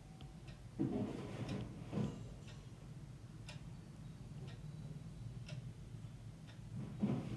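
A clock ticking about once a second, with a few soft thumps about a second in, around two seconds in and near the end, over a low room hum.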